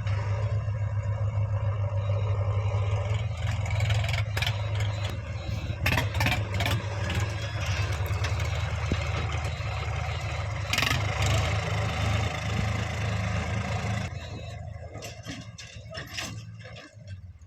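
Heavy diesel engine running steadily under a working machine, with a few metallic clanks. The engine sound drops away about fourteen seconds in.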